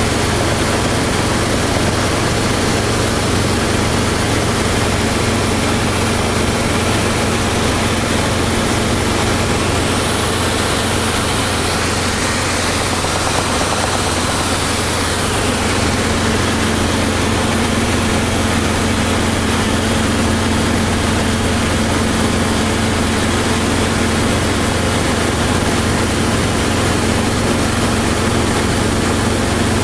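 Robinson R22 helicopter in flight: its four-cylinder Lycoming piston engine and two-blade rotor running steadily and loudly.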